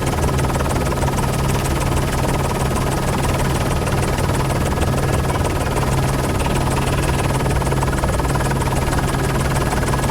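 Steady running noise of a news helicopter's engine and rotors, heard from aboard: a constant low drone with a thin high whine over it.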